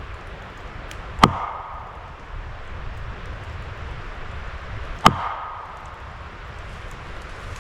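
Two loud, sharp knocks about four seconds apart, each with a short ringing tail: signal knocks struck to call for a reply.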